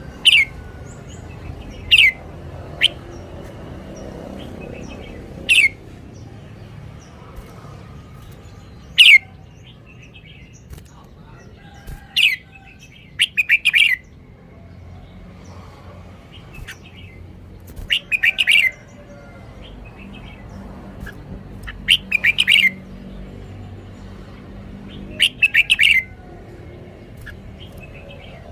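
Red-whiskered bulbul singing: single short, sharp notes that drop quickly in pitch, a few seconds apart, then, from about halfway through, four quick bursts of several rapid notes each.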